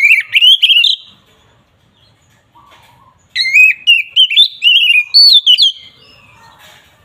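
Oriental magpie-robin (kacer) singing its loud, clear 'ngeplong' fighting song: quick whistled phrases sweeping up and down in pitch. One burst lasts about a second at the start, and after a pause a longer run of phrases begins about three seconds in.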